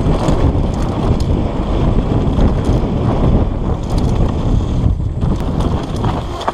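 Mountain bike riding downhill: wind buffets the microphone over a steady rumble, with frequent clicks and rattles from the bike.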